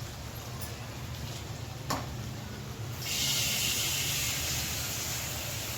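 Curry masala frying in a pan. About halfway through, a loud, steady sizzle starts suddenly, and there is a single knock a little before it.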